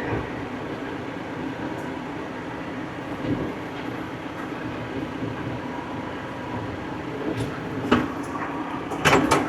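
Farm tractor engine running steadily while driving, heard from inside the cab, with a few sharp knocks near the end.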